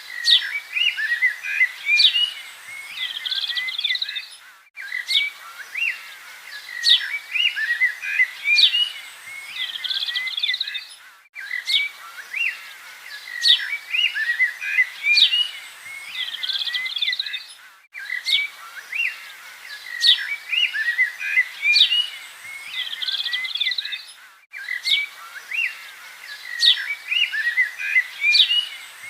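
Several birds chirping and singing at once, short high calls and whistles overlapping. The same stretch of birdsong repeats as a loop about every six and a half seconds, with a brief gap at each join.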